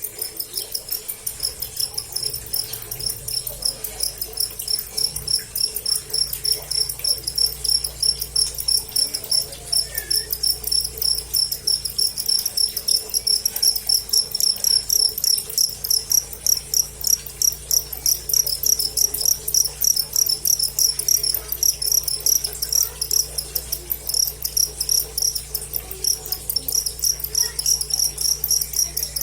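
A cricket chirping steadily: a long run of quick, evenly spaced high-pitched chirps, with a faint low hum underneath.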